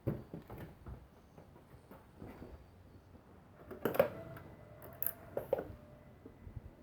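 A few scattered clicks and knocks, the loudest about four and five seconds in, with a faint steady tone lasting about two seconds between them.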